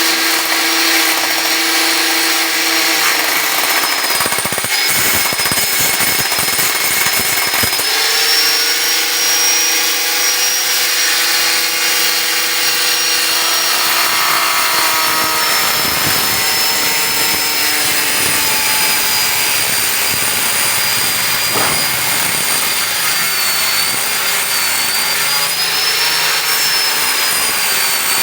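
Angle grinder cutting into the metal body of a water heater, running loud and continuous. Its high whine sags and recovers as the disc bites, and a lower hum comes and goes with the cut.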